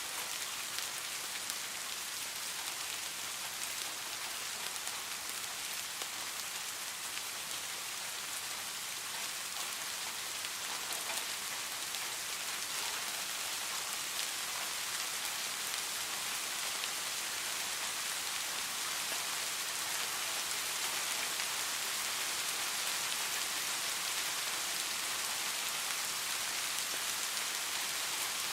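Steady rain: an even hiss with scattered faint drop taps, growing a little louder after about halfway.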